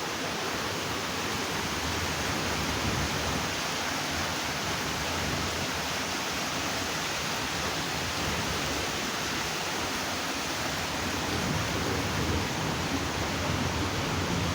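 Floodwater rushing under a bridge: a steady, dense roar of moving water, with its deeper rumble growing stronger in the second half.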